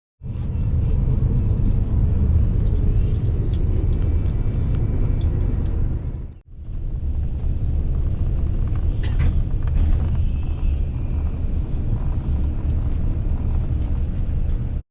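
Steady low rumble of vehicle or traffic noise, broken by a brief drop-out about six and a half seconds in.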